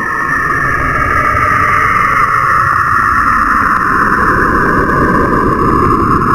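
Radio emissions from a planet or moon, recorded by a spacecraft and converted to sound: a steady, dense drone with a hissing band and a low rumble, with faint rapid ticking running through it. It starts abruptly after a short silence.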